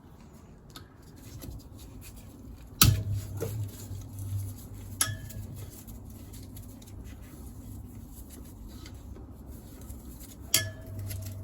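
Metal clinks of bolts and tools handled against a motorcycle engine casing during a teardown: three sharp clinks with a short ringing after each, the loudest about three seconds in, another near the middle and one near the end.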